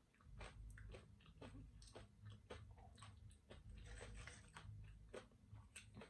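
Close-miked chewing of a mouthful of food: faint, irregular crunches and wet mouth clicks.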